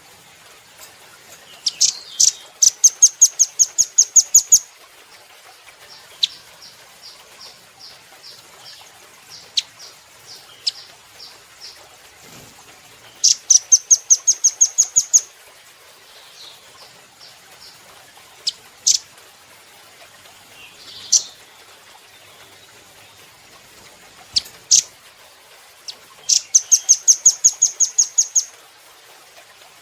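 Velvet-fronted nuthatch singing: three loud bouts of a fast trill of sharp, high repeated notes, about five a second and two seconds each, with single sharp chips and a softer run of notes in between.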